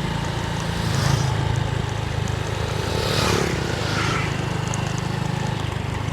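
A vehicle engine running steadily, with brief rushing noises about one and three seconds in.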